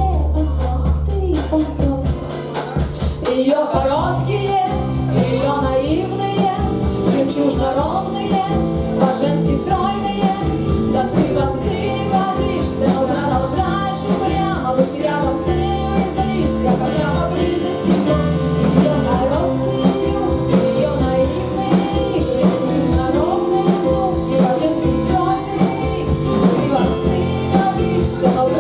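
A rock band playing a song live, with a singer's voice over the instruments and a steady drum beat.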